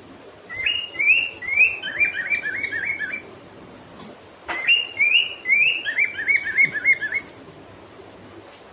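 Cockatiel whistling its song in two phrases. Each phrase is a few rising whistles followed by a quick run of short repeated notes.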